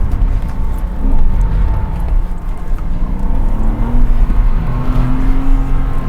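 Porsche Cayman 987's 2.7-litre flat-six engine running hard through a driving course, its pitch rising and dropping with gear changes, over a heavy low rumble.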